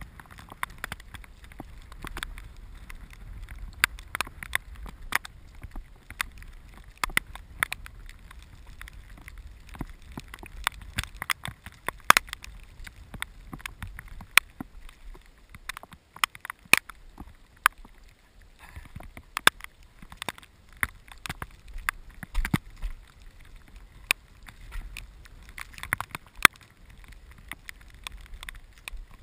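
Raindrops tapping on an action camera's waterproof housing: irregular sharp ticks, a few a second, some much louder than others, over a low rumble of wind on the microphone.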